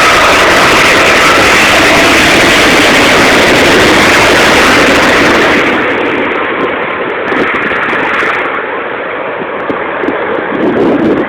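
Airbus A380's four jet engines at go-around power during a missed approach, a loud steady rushing noise with a faint whine, falling off about six seconds in.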